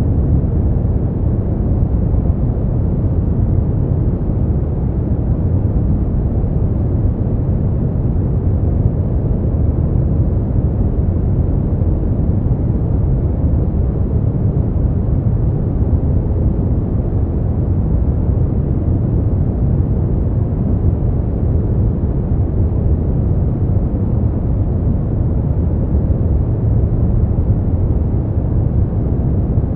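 Steady synthetic noise for sleep, deep and muffled, with most of its weight low down and no high hiss, unchanging throughout.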